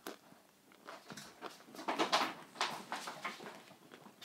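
Chewing of french fries: a run of irregular mouth clicks, loudest around two seconds in.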